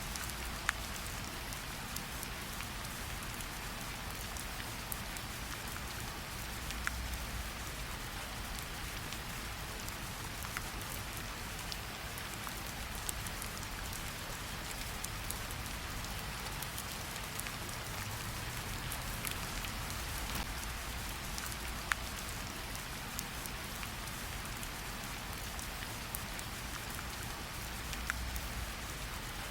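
Steady light rain pattering on tree leaves, a soft continuous hiss with scattered sharper ticks of single drops falling, a few louder than the rest.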